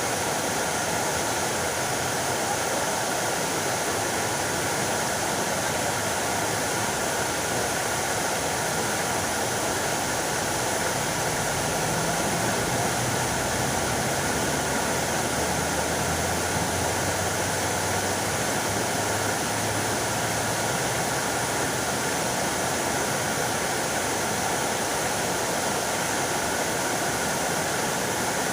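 Fountain water splashing in a steady, unbroken rush.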